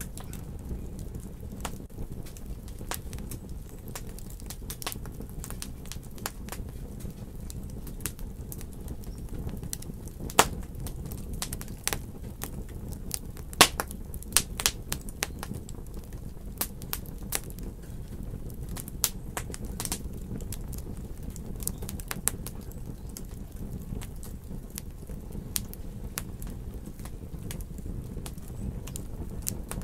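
Wood fire in a fireplace crackling: a steady low rumble of the flames with irregular sharp pops and snaps of burning wood, a few of them louder about a third and halfway through.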